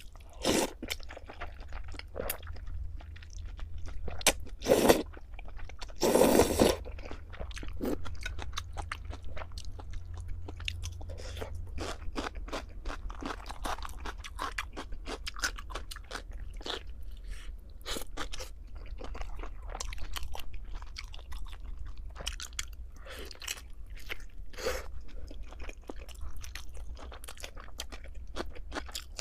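Close-miked eating: crunchy cai tuotuo being bitten and chewed, with continual irregular crunching and a few louder bites about five and six seconds in.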